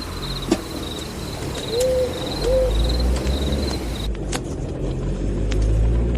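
Night ambience sound effects: crickets chirping steadily and an owl hooting twice, over a car engine running low that grows louder. A sharp click comes about half a second in, and the cricket chirping cuts off suddenly about four seconds in.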